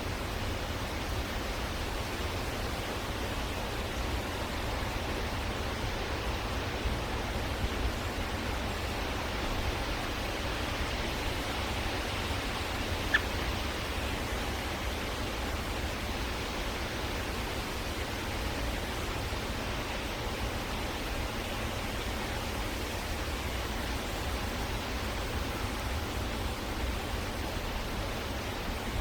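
Steady hiss of outdoor background noise, with a single short high chirp about halfway through.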